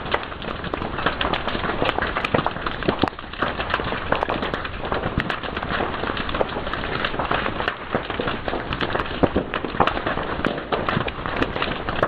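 Fire crackling and popping: many sharp snaps, dense and irregular, over a steady hiss.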